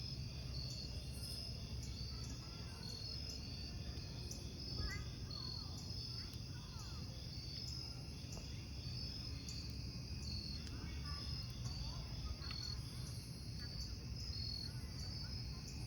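Crickets chirping in short pulses repeated a few times a second, over the low rush and occasional faint crackle of a wood campfire.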